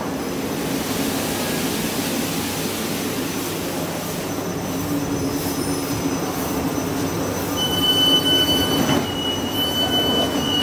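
South Western Railway electric multiple-unit train running slowly past at close range with a steady rumble of wheels on rail. About three-quarters of the way in a high, steady brake squeal sets in as the train slows to a stop.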